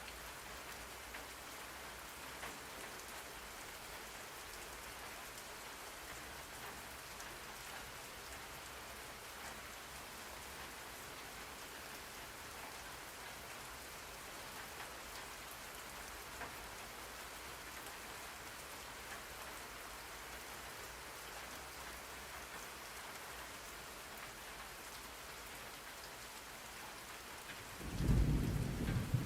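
Steady rain falling, an even hiss of drops. Near the end a low rumble of thunder breaks in, much louder than the rain.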